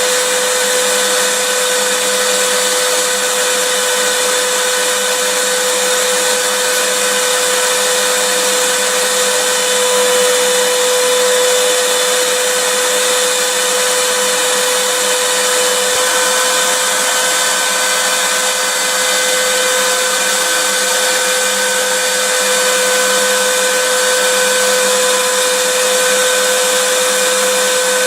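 Vacuum cleaner running steadily: a constant hiss with a steady motor whine.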